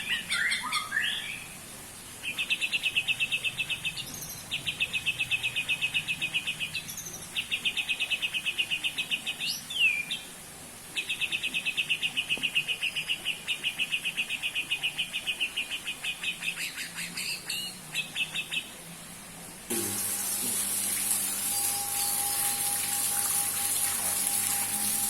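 Caged songbird singing in a series of rapid, rattling trills, each burst lasting a second or two, with short pauses between. Near the end the song stops and a steady hiss with a low hum takes over.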